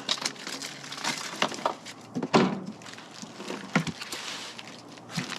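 Wood campfire crackling, with irregular sharp pops and a couple of louder knocks, one a little over two seconds in and one near four seconds.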